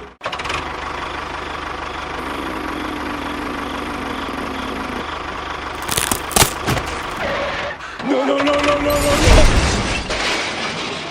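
A motor engine running, with a few sharp knocks about six seconds in and a louder pitched surge from about eight to nine and a half seconds.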